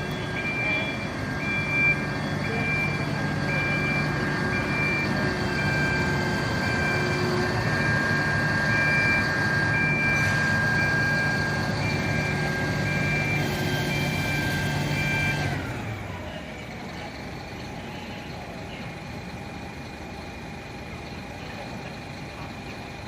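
Fire truck's engine running at raised speed with a warning beeper sounding about once a second. About two-thirds of the way through, both cut off and the engine hum winds down.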